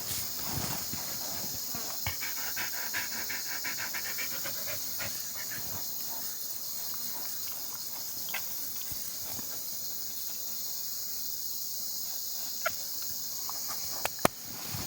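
A dog panting in quick, rhythmic breaths, plainest a couple of seconds in, over a steady high hiss, with a few sharp clicks near the end.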